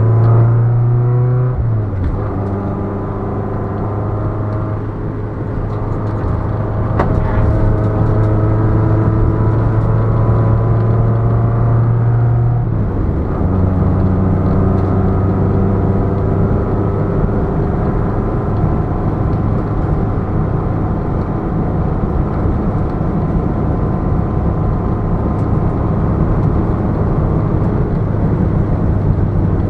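Ford Fiesta Mk5 Zetec S's 1.6-litre four-cylinder engine pulling hard on a circuit lap, heard loud from inside the car. The note climbs slowly and drops sharply twice, about two seconds in and again about thirteen seconds in.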